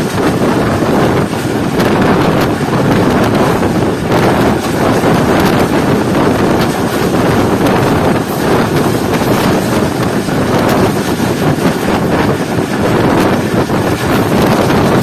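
Loud, steady wind buffeting a microphone held out of a passenger coach window, mixed with the noise of the coach's wheels on the rails as the train runs at just over 100 km/h.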